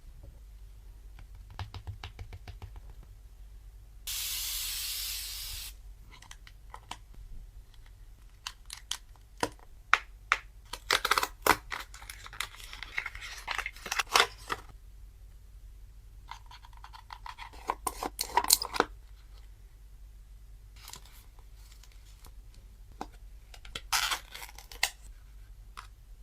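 Packaging and products handled during an unboxing: a steady hiss lasting about a second and a half, then several clusters of crinkly rustling and sharp clicks.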